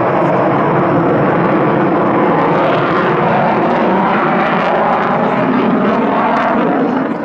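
Eurofighter Typhoon's twin jet engines running loud and steady as the fighter flies its display, a dense, unbroken rushing noise.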